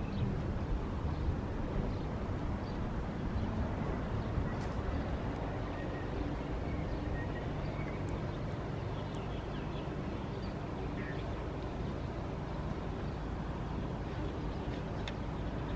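Steady low rumble of a distant diesel train slowly approaching.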